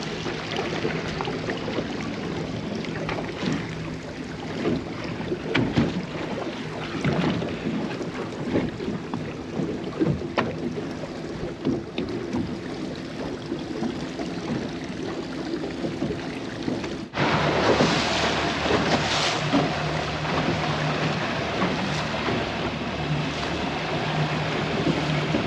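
A boat engine running steadily, mixed with wind and water noise. About 17 seconds in the sound cuts abruptly to a louder, hissier stretch of engine, wind and water.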